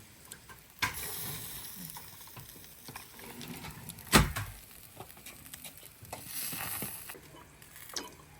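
Backyard wood-fire barbecue sizzling and crackling, with scattered small clicks. One sharp knock about four seconds in is the loudest sound.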